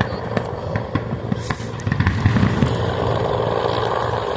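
Fireworks show heard from a distance: many sharp bangs in quick succession over a continuous low rumble, growing louder about two seconds in.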